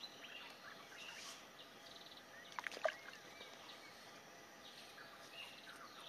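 Faint birds chirping and calling over a low steady hiss, with one louder cluster of sharp, quick notes a little under halfway through.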